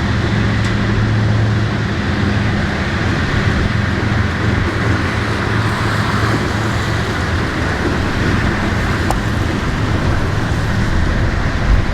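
Norfolk Southern freight train passing, a steady rolling rumble of wheels on rail. A low hum is strongest in the first few seconds, then fades.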